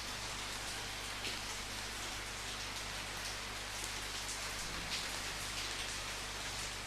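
Steady rain falling on a surface, an even hiss with scattered louder drops.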